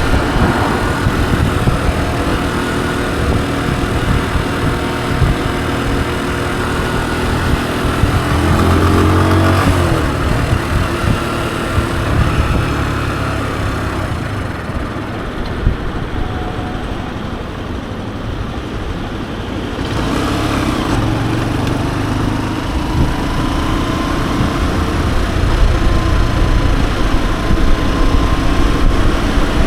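Honda CG125's single-cylinder four-stroke engine running on the move, with a steady hiss over it. About nine seconds in the engine revs up with a rising pitch, and from about fourteen to twenty seconds the hiss falls away before it picks up again.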